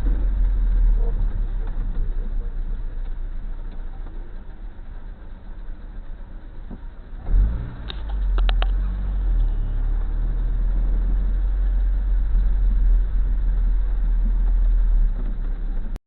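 Low, steady rumble of a car driving, recorded by a dashcam inside the car, with a sudden loud thump a little past halfway through followed by a few short sharp clicks.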